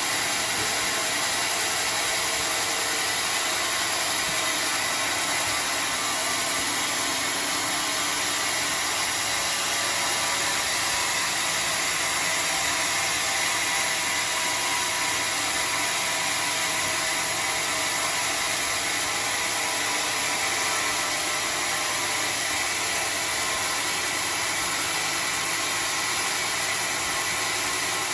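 Homemade sawmill running steadily, giving a steady noisy hiss with no breaks or changes.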